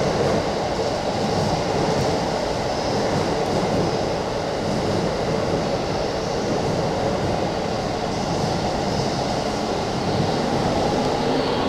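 Keikyu Blue Sky Train, an eight-car blue electric train, running along the track beside the platform: a steady rumble of wheels on rail and running gear.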